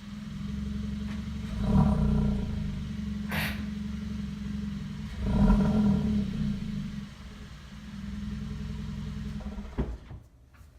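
2018 Hyundai Elantra Sport's 1.6-litre turbocharged four-cylinder idling through an exhaust with the resonator removed, revved in two short blips about two and five and a half seconds in, with a brief hiss between them. Near the end a click comes and the engine sound cuts off.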